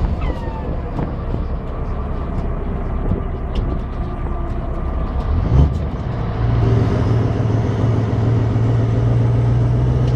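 Scania 164 480 V8 diesel running through a straight exhaust, idling steadily. About six seconds in it gets louder and deeper as the revs come up a little and hold there.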